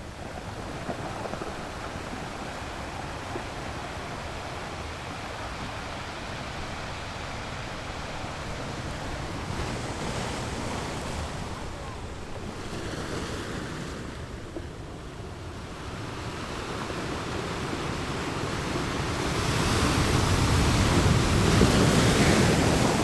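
Sea waves washing onto a beach: a steady rushing surf that swells about ten seconds in and builds to a louder breaking wave near the end.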